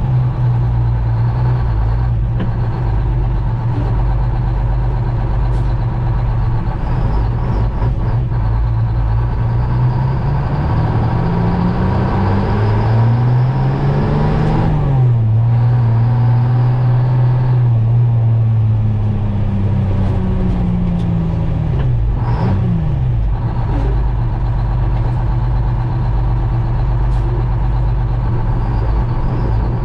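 1961 GMC Crackerbox semi's two-stroke Detroit Diesel engine pulling under way. Its pitch climbs for a few seconds, drops sharply at a gear shift about halfway through, then winds down and settles to a steady run.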